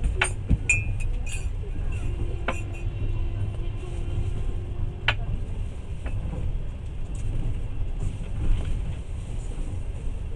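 Passenger train running, heard from inside the carriage: a steady low rumble with a few sharp clinks and clicks, several in the first second and a half and single ones about two and a half and five seconds in.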